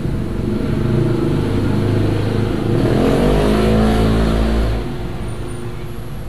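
Engine of a passing motor vehicle, its pitch rising then falling and loudest about three to five seconds in, then fading.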